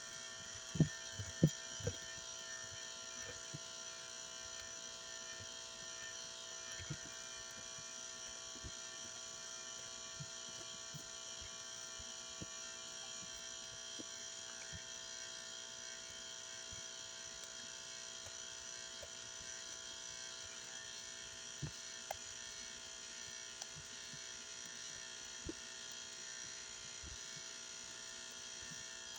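Fluorescent light fixture buzzing steadily, a layered electrical hum of several tones. A few sharp taps or clicks about a second in and a couple more later, likely from handling the cleaning paste.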